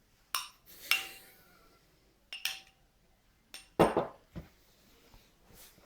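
A spoon clinking and scraping against a cup while runny cake batter is spooned in: about six separate knocks, a few of them ringing briefly.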